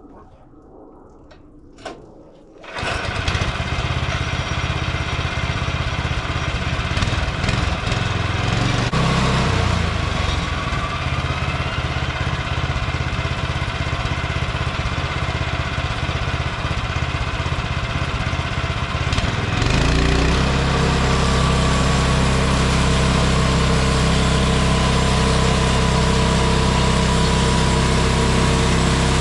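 Small gasoline engine of a bandsaw sawmill, quiet at first, then running loud and steady from just under three seconds in. About two-thirds of the way through its note shifts, briefly gliding in pitch, then settles into a heavier, steadier drone as it works.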